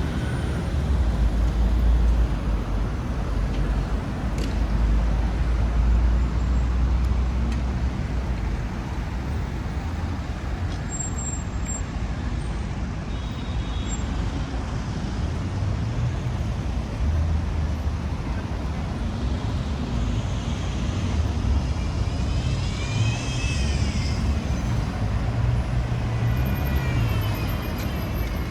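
City street traffic: cars and other vehicles passing with a steady low engine rumble, heaviest in the first several seconds. Late on, a short high squeal rises and falls a few times.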